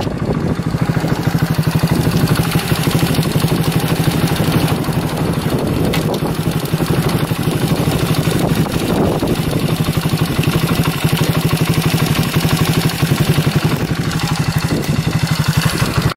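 Chinese-made single-cylinder four-stroke engine in a Monkey/Gorilla-style minibike running steadily under way through an aftermarket Bike Parts Center muffler, with wind noise on the microphone.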